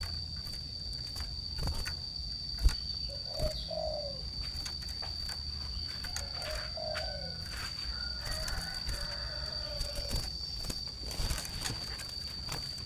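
A sirtu bird giving low cooing calls in three short groups of downward-sliding notes: a few seconds in, around the middle, and again shortly after. A steady high-pitched whine and scattered clicks run underneath.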